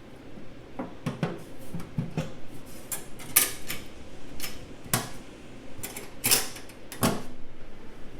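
Sheet steel toolbox being handled: a dozen or so sharp metallic clicks and knocks at irregular intervals.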